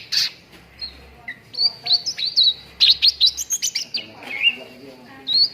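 Cucak ranting singing: a fast run of sharp, high chirps, then a lower warbled phrase and a quick rising note.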